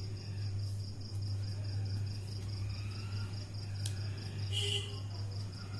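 A cricket chirping in a steady high-pitched pulse, about five chirps a second, over a steady low electrical hum.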